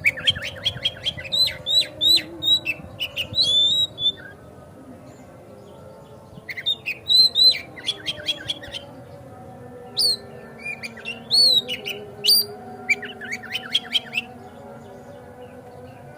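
Oriental magpie-robin singing in three bursts of rapid, high chirps and whistled notes separated by short pauses, over a faint steady hum.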